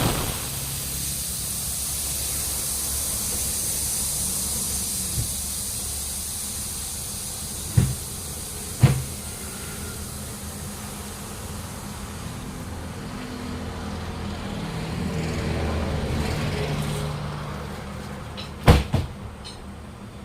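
Steady low mechanical hum with a hiss that fades away over the first half. Two sharp knocks come about a second apart near the middle, and another near the end.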